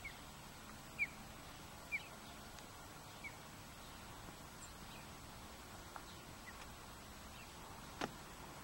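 A few short, high bird chirps, the first three about a second apart and fainter ones later, over faint outdoor background; a single sharp click near the end.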